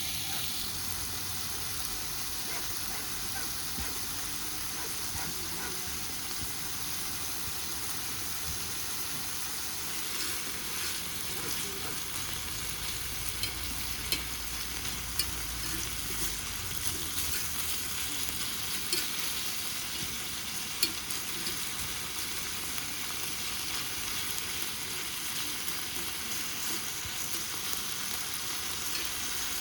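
Chicken neck meat and garlic sizzling steadily in oil in a pan as they are stir-fried. A few sharp clicks come through the middle stretch.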